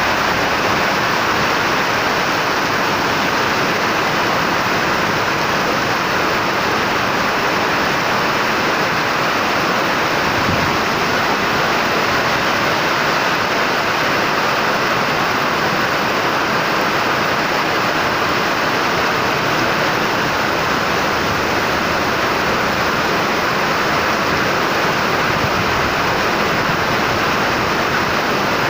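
Steady rush of storm water: heavy rain and runoff water flowing, with no breaks or single events.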